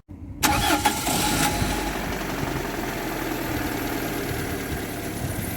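Car engine starting about half a second in, catching with a short loud burst, then settling into a steady idle. It runs evenly, without the hydraulic lifter knock it had before the flush and fresh oil.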